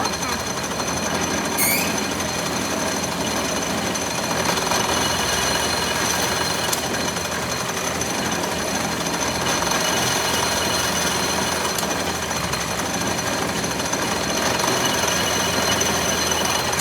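Steady metalworking machinery noise with a few high steady tones over it, and a short rising squeal about one and a half seconds in.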